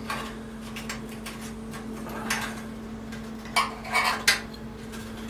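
Scattered light metallic clinks and knocks of steel parts and hand tools being handled, over a steady low hum.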